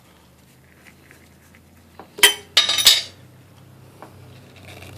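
Metal hand tools and steel parts clinking together: two short bursts of ringing metallic clinks a little past the middle, as the exhaust manifold stud with its nuts comes free and is handled.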